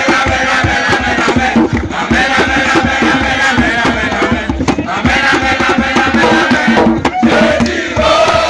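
A group of young people singing a chant together over rhythmic drumming or percussion.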